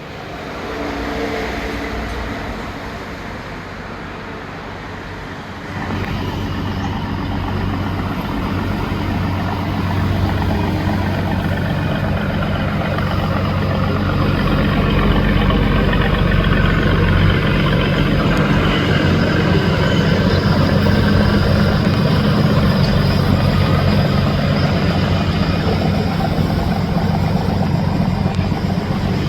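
Boat engine running steadily, growing louder about six seconds in and staying loud.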